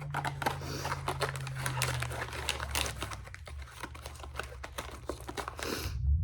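Plastic snack packaging crinkling and crackling in irregular bursts as it is handled, stopping about six seconds in.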